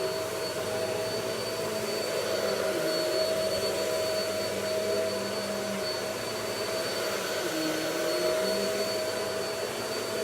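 Vacuum cleaner running steadily: a constant motor whine with a high tone over a rushing hiss, its lower hum wavering slightly now and then.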